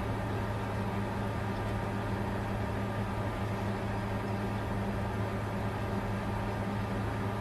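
Bitcoin mining computer running: a steady whir of cooling fans over a constant low hum.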